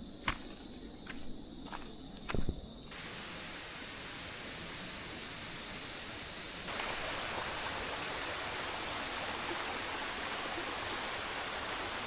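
Steady high-pitched insect buzz, with a few footsteps on the trail in the first couple of seconds. About three seconds in, a broader even hiss fills in underneath.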